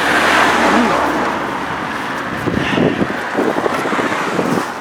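Gusts of wind buffeting the microphone with a loud rushing noise, strongest in the first second or so, then easing into a rougher flutter.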